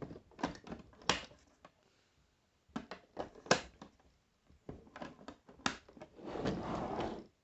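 Sharp plastic clicks and knocks of a battery-powered toy arcade bank being handled while its AAA batteries are swapped, with about a second of rustling scrape near the end.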